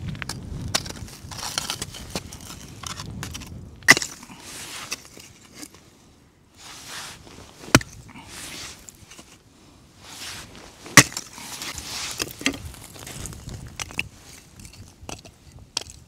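Crunching steps through ice-crusted snow, with many sharp cracks of breaking ice; the loudest cracks come about four, eight and eleven seconds in.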